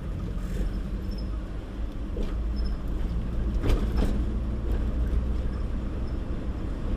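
Truck running on the road, heard from inside the cab: a steady low engine and road rumble, with two sharp knocks about three and a half and four seconds in.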